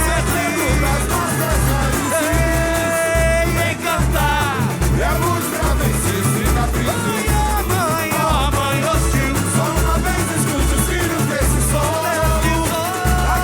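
Samba-enredo sung by a samba school's singers over its bateria, with deep bass drum beats keeping a steady pulse.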